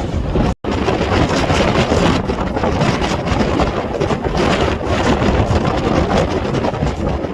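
Strong nor'easter wind blasting across the microphone, a loud, steady rumble, with the sound cutting out for an instant about half a second in.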